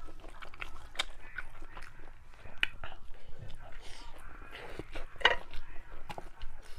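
Close-up eating sounds of spicy rice noodles with tofu skin: chewing with irregular wet mouth clicks and smacks, the loudest about five seconds in.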